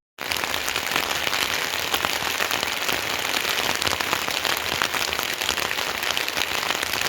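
Steady rain, a dense patter of many small drops.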